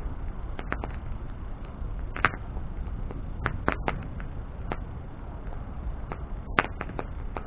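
Wood bonfire burning: a steady low rush of flame, with irregular sharp crackles and pops from the burning wood, about a dozen of them.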